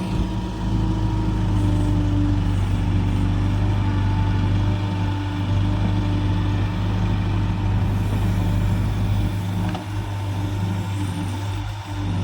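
Diesel engine of heavy farm machinery running steadily at a constant speed.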